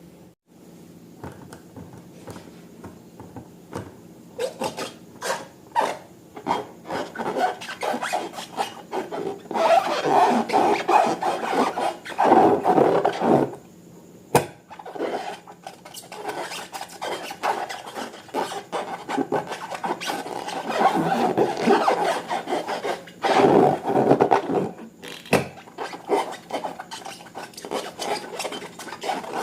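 Irregular rubbing and scraping from slime-making materials being worked by hand, in uneven strokes with small clicks. It comes in louder bouts a third of the way in and again past the middle.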